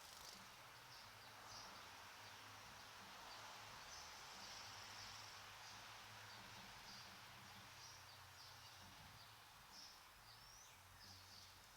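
Faint birdsong: many short high chirps from small birds, with one quick sweeping note near the end, over a steady background hiss.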